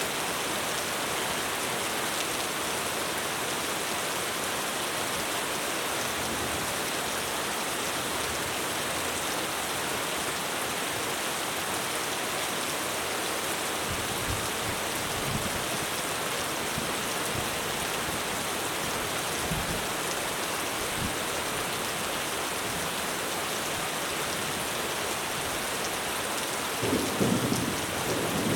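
Heavy rain falling steadily on a roof, with low rolls of thunder about halfway through and a louder thunder rumble near the end.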